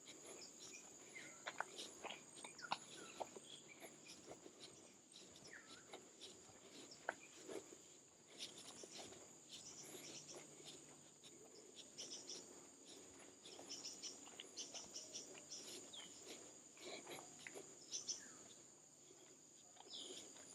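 Faint forest ambience: a steady high-pitched insect drone, with scattered short chirps and clicks throughout.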